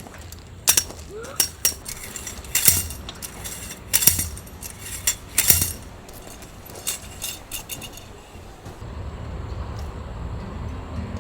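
A string of sharp clinks and knocks, about a dozen hard contacts over the first eight seconds, then they stop.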